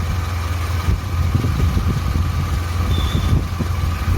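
Suzuki Carry 1.0 four-cylinder engine idling steadily after a rebuild, with a smooth sound.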